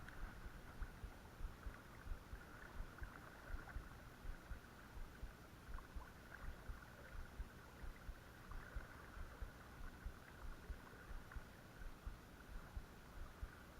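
Creek water running steadily with a faint, even rush, with irregular low thumps on the microphone throughout.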